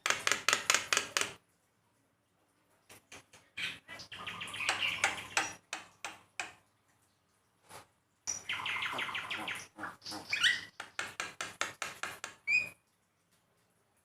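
Javan myna (jalak kebo) giving rapid, harsh chattering calls in three bouts with sudden silent gaps between them, and a few short rising whistles late in the last bout.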